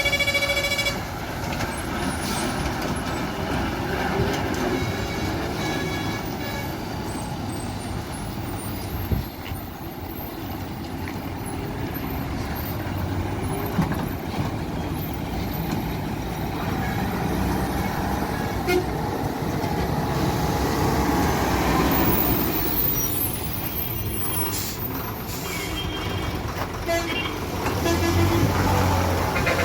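Heavy loaded diesel trucks running on a ghat road, engines rumbling steadily. A truck horn sounds at the start and cuts off about a second in.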